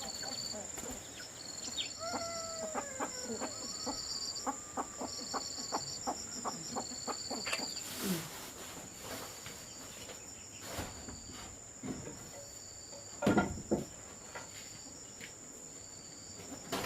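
Rural outdoor ambience of animals and insects: a steady high insect whine and repeated short chirping trills. A few seconds in comes a gliding animal call, followed by a quick run of clicks.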